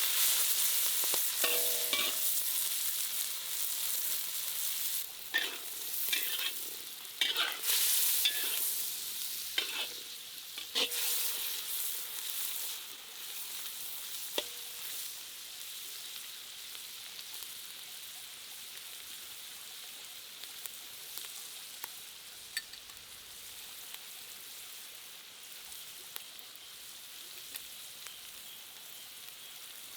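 Food sizzling as it fries in a hot pan, stirred with a utensil that scrapes and knocks against the pan through the first half, with a few metallic clinks about two seconds in. The sizzle dies down gradually, leaving only scattered ticks and pops near the end.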